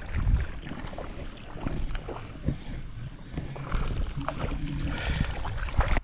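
Water splashing and sloshing in irregular strokes, with a low rumble of wind on the microphone; the splashing is busiest near the end.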